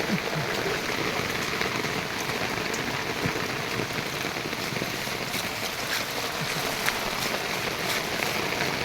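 Steady rain falling, with scattered drops pattering on surfaces.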